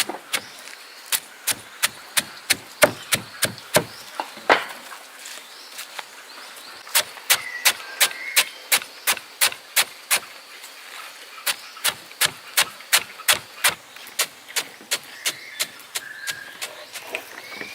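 Rhythmic sharp knocking strokes, about three a second, in three runs broken by two short pauses, the later strokes a little softer.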